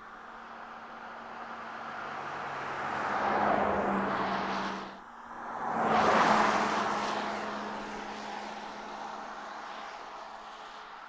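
Porsche Taycan electric car passing by twice: tyre and wind noise swells and fades, dips sharply, then swells to a louder second pass and fades slowly, over a steady low hum.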